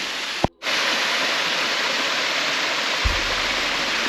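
Waterfall: the steady rush of Wishbowl Falls, broken by a click and a brief gap less than a second in. A short low rumble comes about three seconds in.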